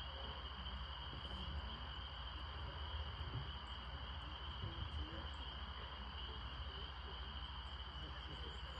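Steady high-pitched chorus of chirping insects over a low hum.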